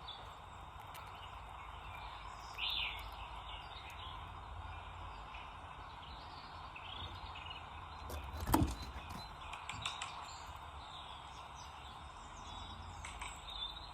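Small garden birds chirping in short, scattered calls over steady background noise. A single sharp thump comes a little past the middle, followed by a few faint clicks.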